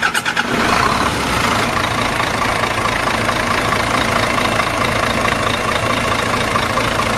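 A vehicle engine running steadily at idle, cutting in suddenly just before the start and holding an even level throughout.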